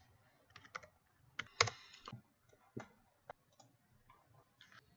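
Faint, irregular clicking of a computer mouse and keyboard, about a dozen separate clicks, the loudest about a second and a half in.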